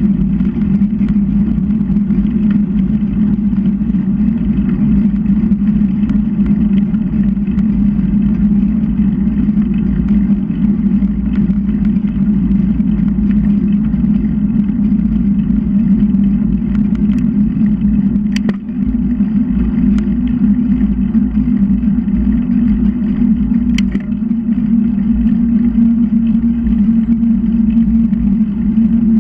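Steady low rumble of wind and road noise on the camera while riding a bicycle, with two brief sharp clicks in the second half.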